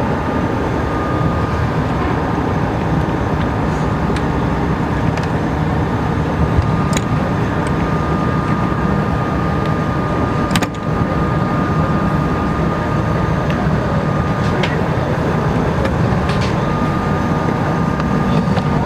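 A yacht's inboard engine running steadily under way, a continuous low drone with a faint high whine that comes and goes and a few light clicks.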